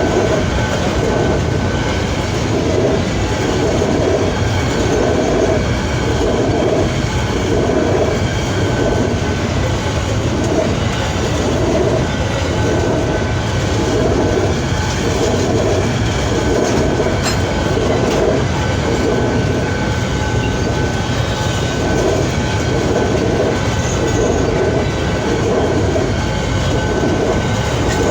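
A freight train's wagons rolling steadily past at close range. The wheels clatter over the rail joints about once a second, with a thin steady whine from the wheels on the rails.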